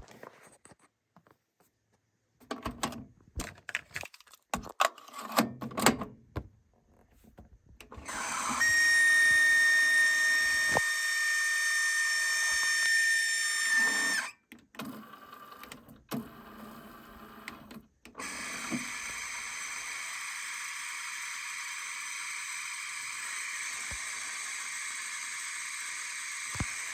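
JVC TD-W709 dual cassette deck being operated: a run of clicks and clunks from the transport, then a loud, steady, high-pitched whine with many overtones for about six seconds. More clicks follow, and after them a quieter steady whine until the end. This is the noise the deck is listed as making.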